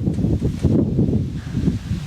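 Strong storm wind buffeting the microphone: a loud, uneven low noise that surges and eases in gusts.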